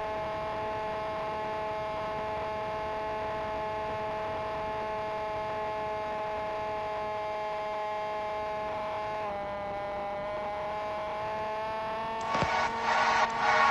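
Electric motor and propeller of an FPV flying wing, a steady whine that dips in pitch about nine seconds in as the throttle eases, then slowly climbs again. Near the end, gusts of wind buffet the microphone.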